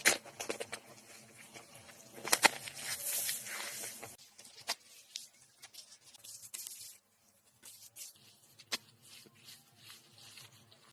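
Rustling and scraping, broken by scattered sharp clicks and knocks, with a louder swishing rush from about two seconds in.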